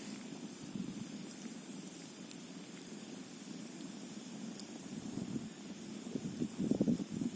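Campfire burning: a steady low rush of flames with a few faint crackles, swelling louder for a moment about six seconds in, over a steady hiss.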